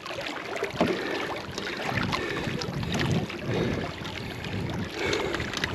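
Wind buffeting the microphone in uneven low swells, with scattered small knocks and rustles of handling, while a jug line with a fish on it is pulled in from a small boat.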